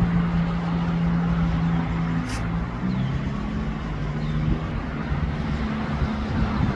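Jet ski engines running steadily, their pitch stepping up and down a few times, with two engine tones heard together for a few seconds. A brief high hiss sounds about two seconds in.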